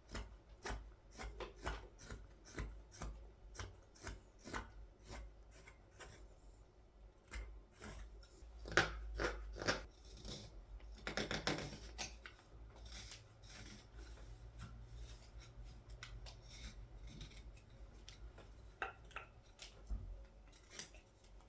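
A carving blade paring shavings from the back of a wild cherry wood scoop: a quick series of short slicing cuts, each a crisp scrape, bunching into rapid strokes in the middle.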